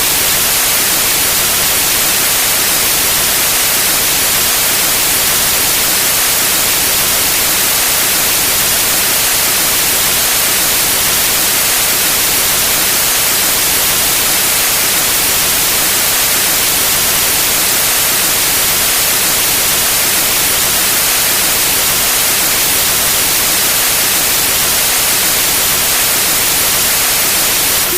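Steady electronic white noise: a loud, even hiss that does not change, with most of its energy in the high pitches.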